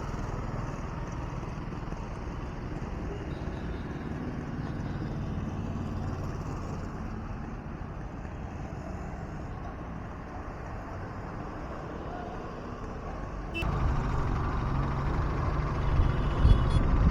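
A two-wheeler's engine runs steadily under way, with road and wind noise. It gets suddenly louder about 13 seconds in.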